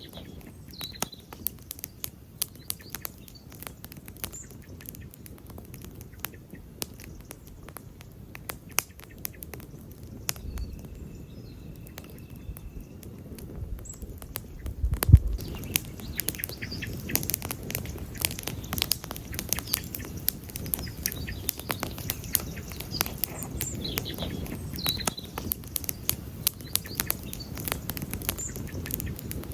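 Wood campfire burning, crackling and popping steadily over a low rumble, with one loud pop about halfway through, after which the crackling grows denser. A brief steady high whistle sounds shortly before the loud pop.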